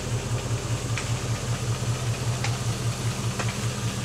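Chevy Vortec 6.0-litre gas V8 with custom headers and exhaust idling with a steady, even pulse. A few short sharp clicks sound over it.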